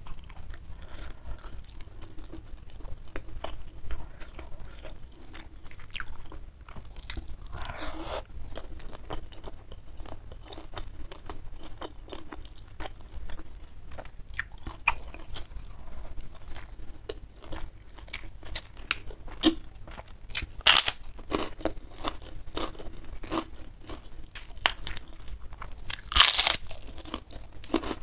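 Close-miked chewing and biting of a mouthful of food, with many small wet mouth clicks and a few louder crunching bites about eight, twenty-one and twenty-six seconds in.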